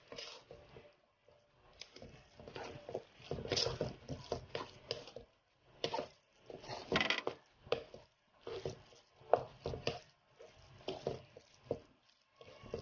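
Utensil stirring and scraping a thick mix of glutinous rice, corn and coconut milk in a pot, in irregular strokes with short knocks against the pot.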